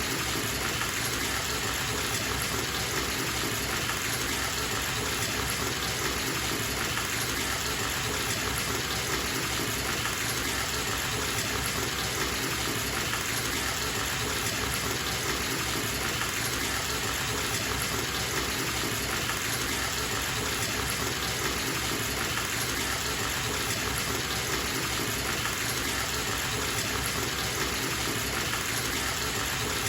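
Bathtub tap running at full flow, water gushing steadily into the tub as it fills.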